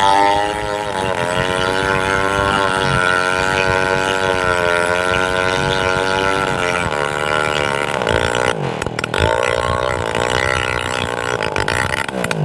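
A chainsaw runs hard, its engine pitch wavering as it works through the wood. The pitch sags and wobbles about seven seconds in, and a few sharp clicks or cracks follow near the nine-second mark.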